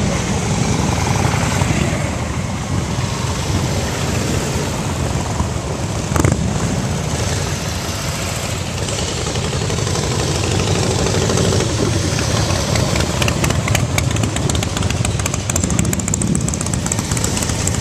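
Several motorcycle engines running, with a sharp knock about six seconds in.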